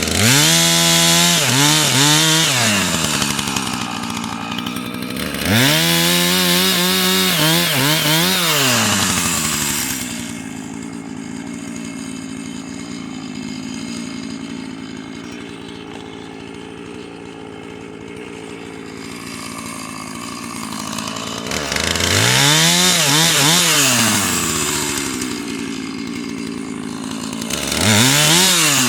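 Husqvarna chainsaw revved up to full throttle four times, each time winding back down to a steady idle, with a long idle in the middle.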